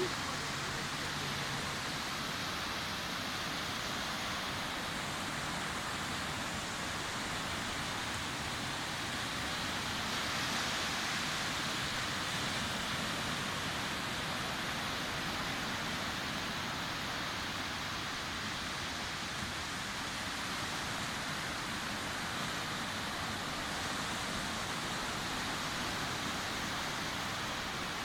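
Sea surf washing continuously on a beach, a steady rushing hiss with only slight swells in level.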